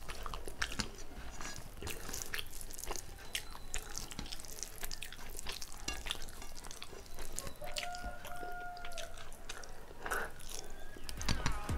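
Close, wet eating sounds of a person eating rice and egg curry by hand: many small clicks and smacks of chewing and mouth movement. A faint steady tone sounds for about a second, two-thirds of the way through.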